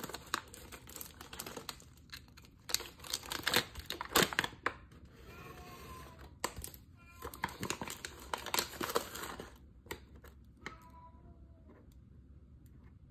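Ground coffee packaging crinkling and rustling as it is handled, with many irregular sharp taps and clicks. It goes quieter for the last few seconds.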